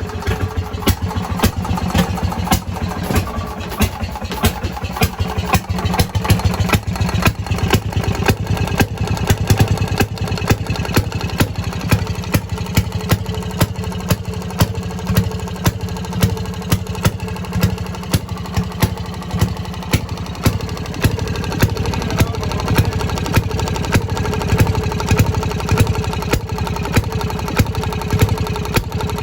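Fairmont RO-C two-stroke rail-car engine running unattended at a steady idle, a regular beat of sharp firing pops over a low engine rumble, not long after a cold start.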